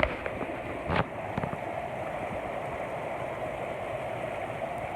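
Mountain stream rushing steadily over rocks, with a couple of sharp knocks near the start and about a second in.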